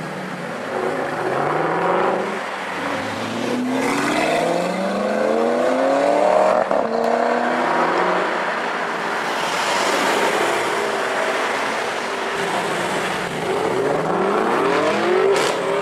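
Supercar with an Akrapovic exhaust accelerating hard, its engine note rising in pitch and dropping at each upshift, several pulls in a row.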